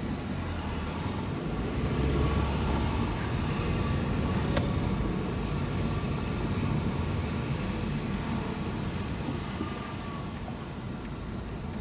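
Car driving, heard from inside the cabin: a steady rumble of engine and road noise that swells a couple of seconds in, with a single click a little before the middle.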